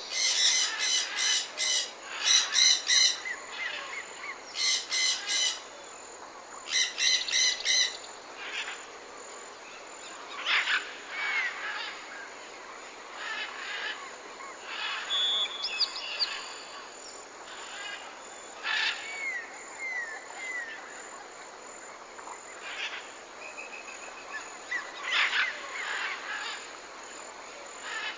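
Tropical forest birds calling: four loud bouts of rapidly repeated notes in the first eight seconds, then scattered quieter calls and short down-slurred whistles from other birds.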